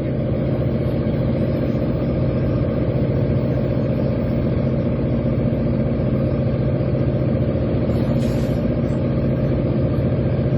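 Fishing boat's engine running steadily, heard on board: a continuous, even low drone.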